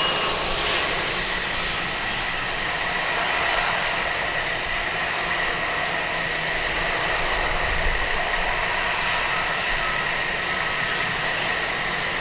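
Jet engines of a cargo airliner running steadily, a constant rushing noise with a high, steady whine.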